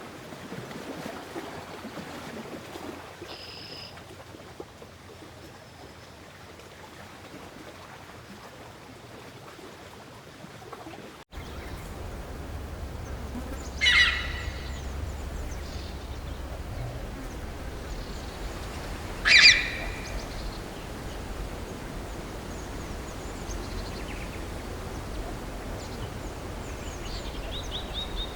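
Two short, loud animal calls about five seconds apart over a soft outdoor background, with a few faint chirps near the end.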